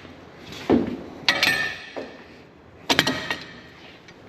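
Steel tools and parts clanking against metal: about four sharp, ringing metallic knocks, the first duller and the rest brighter.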